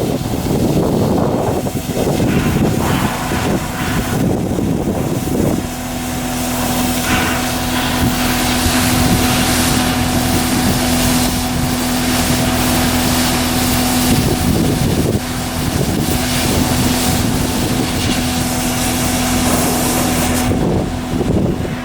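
Machinery running with a steady engine-like hum over wind noise on the microphone. A steady tone sets in about a quarter of the way in, dips briefly near the middle, and stops shortly before the end.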